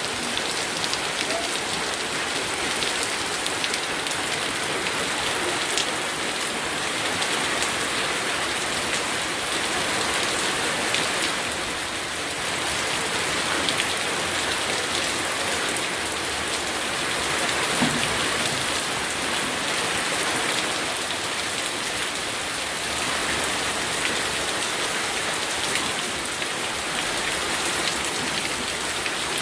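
Steady rain falling on surfaces, an even hiss with many fine drop patters.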